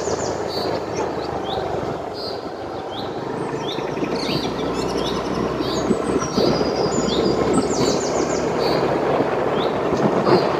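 Birds chirping again and again in short, high, falling calls over a steady rushing background noise.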